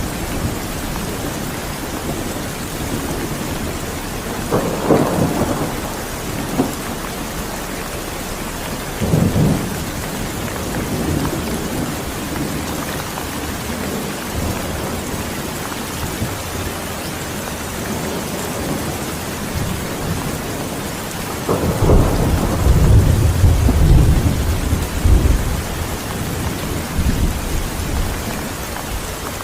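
Steady rain falling, with rumbles of thunder: short ones about five and nine seconds in, and a longer, louder roll from about 22 to 27 seconds in.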